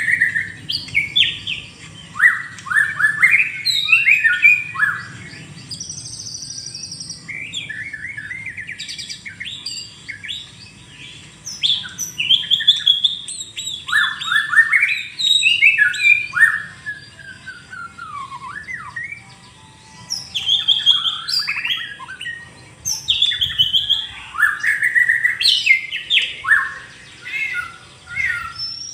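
White-rumped shama (murai batu) singing: a long, varied song of rich whistles and rapid up- and down-sweeping notes, delivered in phrases with short pauses between.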